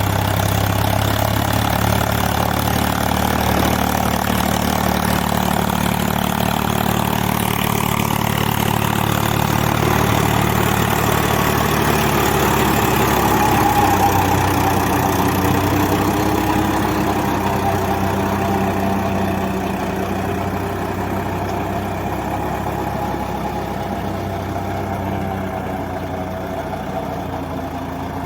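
Swaraj 744 FE tractor's three-cylinder diesel engine running steadily while working in mud. It grows a little louder toward the middle, then fades slowly over the second half.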